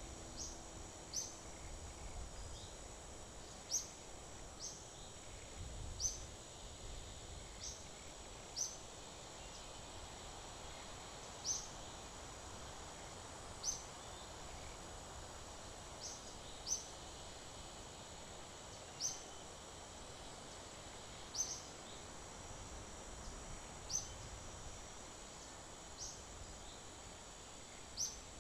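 Faint outdoor nature ambience: a bird repeats a short, high, rising chirp every second or two over a steady high-pitched insect hum.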